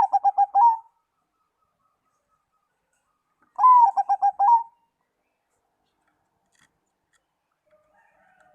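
Zebra dove (perkutut) singing its cooing song twice. Each phrase is a falling opening note followed by a quick run of about five short coos. Faint calls follow near the end.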